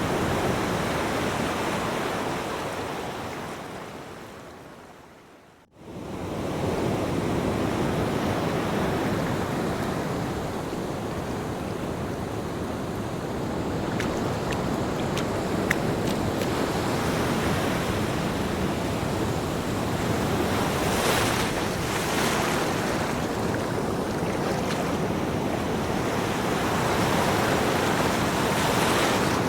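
Ocean surf: a steady wash of breaking waves with slow swells. About five seconds in, the sound fades out to near silence and at once fades back in.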